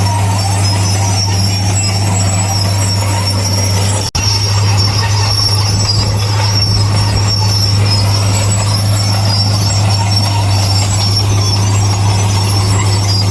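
Heavy earthmoving machinery running with a steady low diesel drone and a thin, high metallic squeal on top. The sound drops out for an instant about four seconds in.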